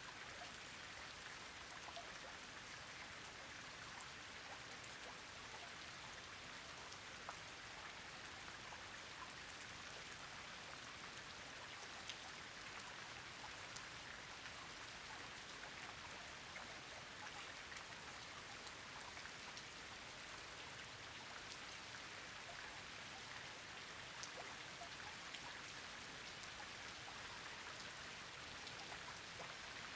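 Steady rain falling, a soft even hiss with individual drops ticking now and then.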